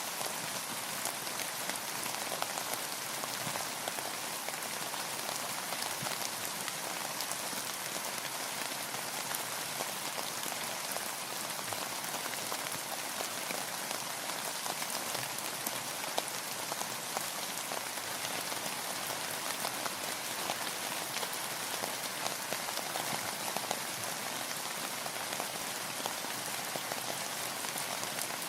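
Steady rain falling, a continuous even hiss with many small drop ticks.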